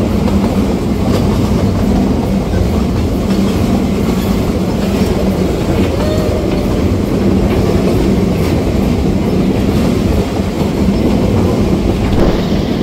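Passenger train running along the track, heard from an open-sided carriage: a steady rumble of wheels on the rails with light clatter mixed in.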